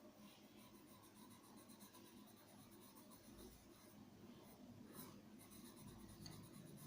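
Faint scratching of a graphite pencil being stroked across paper while shading.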